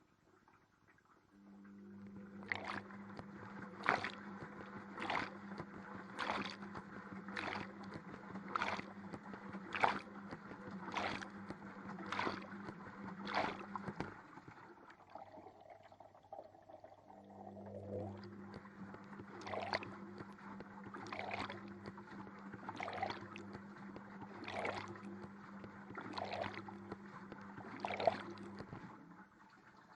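Washing machine on a wash cycle, heard from inside the drum: a steady motor hum while the drum turns, with water and laundry sloshing about once every second. The drum stops about 14 seconds in, starts turning again a few seconds later, and stops near the end.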